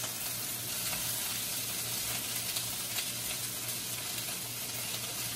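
Rice frying in hot oil in a wok over a gas burner: a steady sizzle, with light stirring in the pan.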